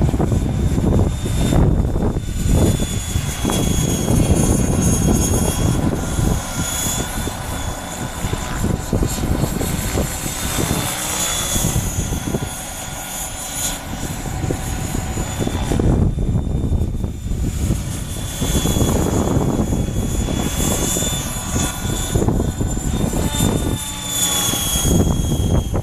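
KDS Innova 600 flybarless RC helicopter flying, its 12-cell electric motor and rotor whining steadily with low rotor rumble. The whine grows louder and quieter and shifts slightly in pitch as the helicopter manoeuvres.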